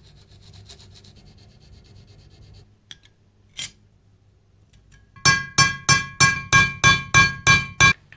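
Hand work on a metal part: faint scraping at first, then from about five seconds in a run of about ten quick, evenly spaced metallic strokes, roughly three a second, each with a ringing metal tone.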